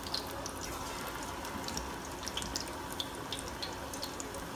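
Pakoras deep-frying in hot oil in a steel saucepan: a steady sizzle with many small, irregular pops and crackles.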